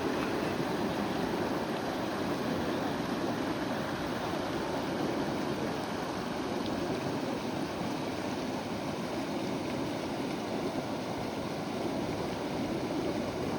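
Steady rushing of river water flowing around a bamboo raft.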